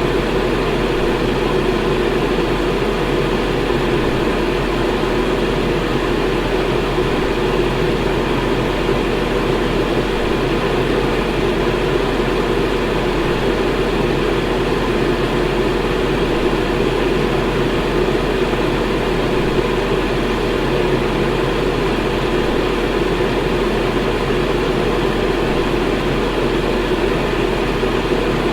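Electric fan running steadily: an even rushing noise with a constant low hum underneath.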